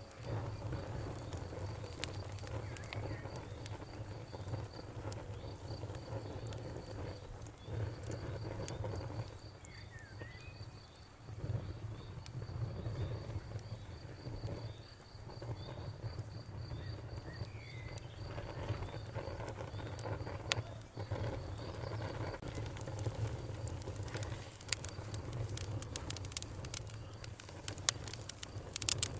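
Wood campfire burning: a low rumble of flames with scattered crackles and pops, which thicken near the end. Under it runs a steady pulsing cricket chirp, with a few faint bird chirps.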